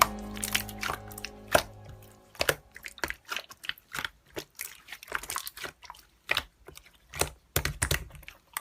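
Background music fading out, then slime being squeezed and poked with irregular sharp clicking pops.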